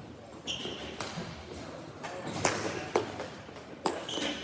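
Ball hockey play in a large hall: several sharp clacks of sticks hitting the ball and each other, echoing in the room, with two brief high squeaks.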